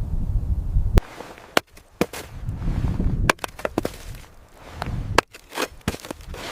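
A low rumble, then a quick irregular series of sharp cracks and snaps starting about a second in.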